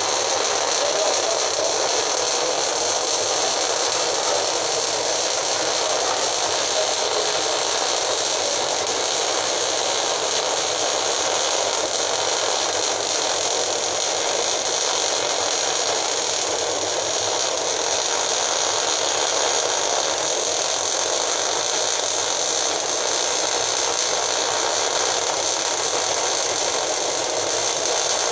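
Steady whirring noise with a rattle, like a running machine.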